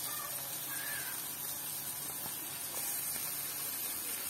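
Raw chicken pieces frying in hot oil with onion, garlic and ginger in a black frying pan over a wood fire: a steady sizzling hiss, with a few faint clicks.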